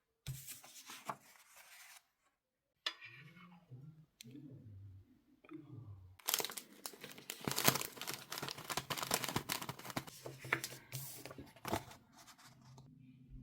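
Close-up crinkling and tearing, dense and irregular, starting about six seconds in, after a quieter stretch with a few soft low vocal sounds.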